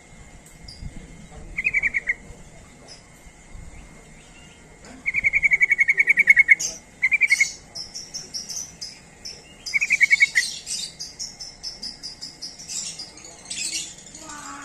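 Yellow-vented bulbul (trucuk) calling in several quick bubbling bursts of rapidly repeated notes, the longest about a second and a half in the middle, with higher twittering in the second half. A steady high insect trill runs underneath.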